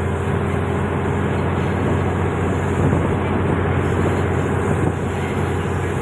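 THN/NKF diesel railcar train running along the line, heard from on board: a steady engine drone under a constant rush of wheel and rail noise.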